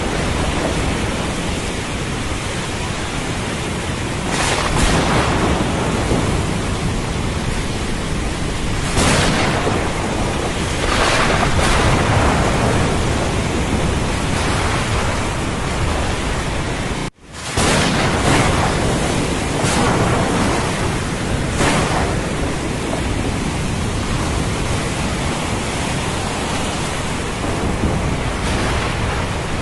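Thunderstorm soundscape: steady heavy rain and ocean surf, swelling in surges every few seconds, with thunder rumbling low underneath. The sound cuts out for a split second about 17 seconds in, then comes straight back.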